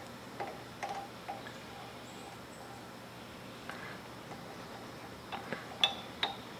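Scattered light metallic clicks and clinks from metal parts being handled, a few close together near the end, one ringing briefly with a high tone.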